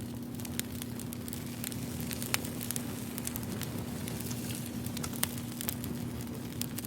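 Wood fire crackling, with irregular sharp pops over a steady low hum.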